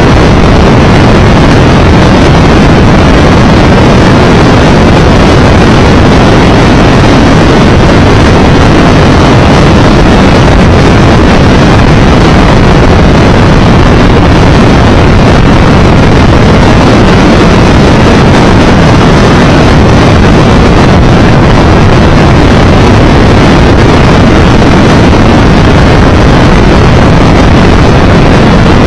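Steady, very loud wind rush and road noise on a microphone mounted on a Triumph 1200 Tiger Explorer motorcycle riding at speed.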